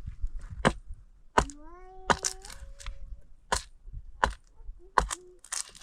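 Sharp cracking knocks struck at a fairly steady pace, about eight in all. A short, high, rising voice call sounds about one and a half seconds in.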